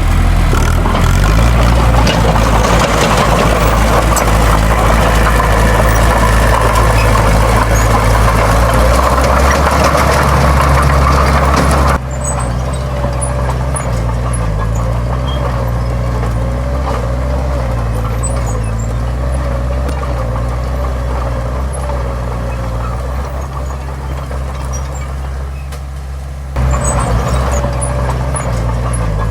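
Heavy diesel earthmoving machinery running steadily with a deep engine hum; the sound changes abruptly about twelve seconds in and again near the end.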